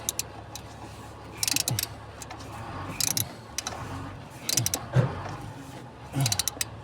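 Hand ratchet clicking in several short bursts while working the gas pedal bracket screws in a cramped spot under the dashboard.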